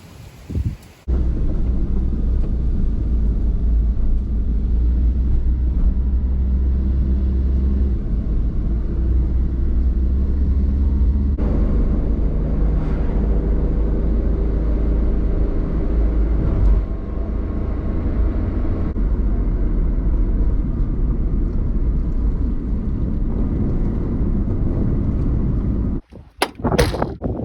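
A vehicle engine running with a steady low rumble. It starts abruptly about a second in and cuts off near the end, with a couple of abrupt changes in between.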